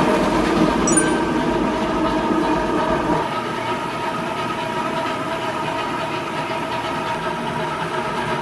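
Handheld marble grinder-polisher running steadily, its pad grinding down a marble floor with a steady whine over a grinding rasp. The grinding is taking down the height differences between marble tiles at the grout joints so the surface turns smooth.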